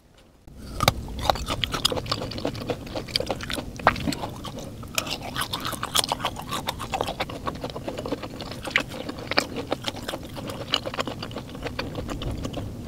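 Close-miked mouth sounds of a person chewing food, starting about half a second in: a dense run of sharp crisp clicks and crackles with wet smacking.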